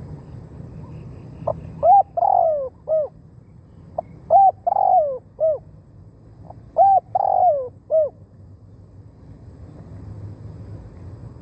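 Spotted dove cooing: three calls about two and a half seconds apart, each a short note followed by several coos that rise and fall in pitch, over a low steady hum.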